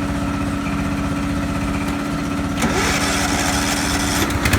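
Tractor engine running steadily at idle. About two and a half seconds in, a louder hissing noise joins it.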